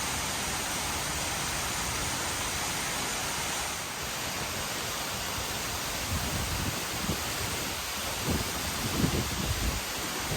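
Steady rushing roar of a 70-metre waterfall. From about halfway through, low irregular buffeting bumps come in on top of it.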